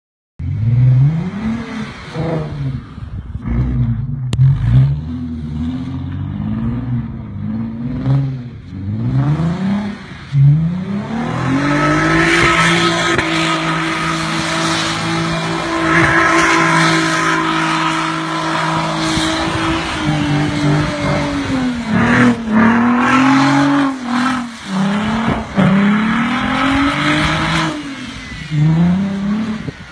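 Audi TT engine revving hard in repeated rising-and-falling surges as the car spins donuts on snow. About ten seconds in, it is held at steady high revs for roughly eight seconds in one long slide, then goes back to short rev surges near the end, with the hiss of tyres spinning through snow underneath.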